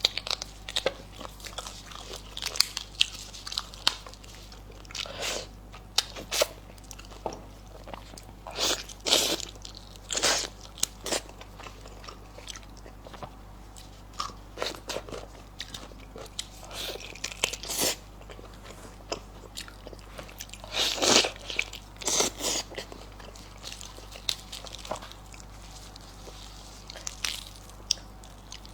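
Close-miked mouth sounds of someone eating lamb trotters, gnawing skin and tendon: irregular bites and chewing with short crunchy clicks, one loud cluster about two-thirds of the way through.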